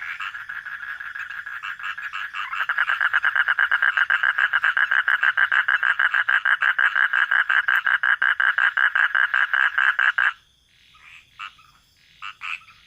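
Frog calling: a rapid, even train of croaking pulses that grows louder about two and a half seconds in and stops abruptly about ten seconds in, followed by a few faint short calls.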